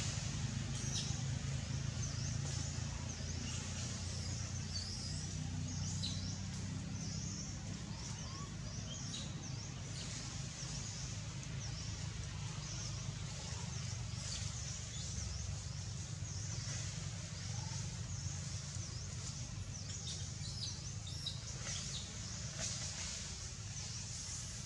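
Small birds chirping and twittering, short high calls scattered throughout, over a steady low rumble.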